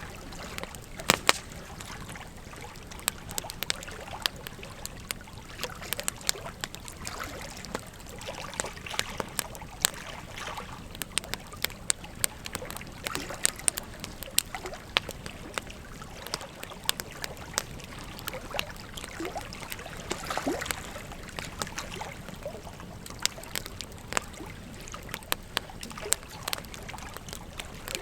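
Wood fire crackling and popping with many sharp, irregular snaps over the steady rush and trickle of a flowing river.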